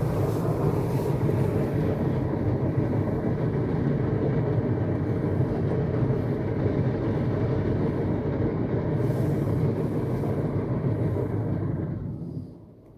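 Istobal M'Wash 3 Pro automatic car wash running, a steady noise of its machinery and water that falls away sharply about twelve seconds in.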